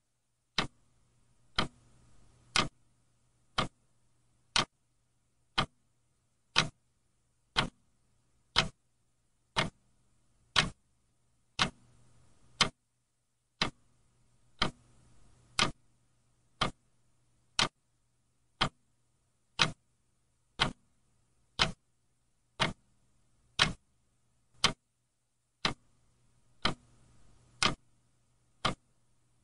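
A clock ticking steadily, about one sharp tick a second, over a faint low hum.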